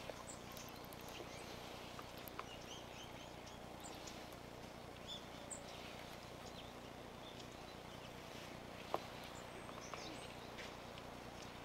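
Long-tailed tits calling: many short, thin, high-pitched notes scattered throughout, over steady background noise, with one sharp click about nine seconds in.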